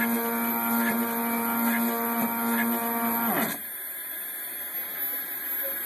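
DIY CNC Z-axis stepper motor whining at a steady pitch as it drives the slide back toward its home position, then the pitch falls quickly and it stops about three and a half seconds in.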